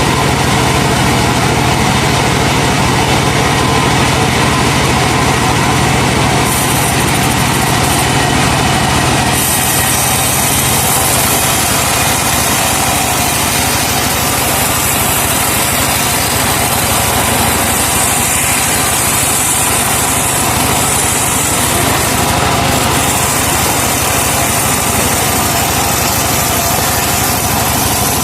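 Engine-powered wood saw running steadily. About nine seconds in, the low hum thins and a higher hiss takes over.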